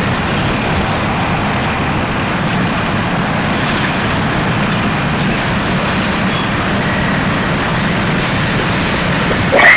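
Union Pacific manifest freight train's cars rolling past at steady speed: a constant rumble and rush of wheels on rail. A person's brief loud exclamation comes near the end.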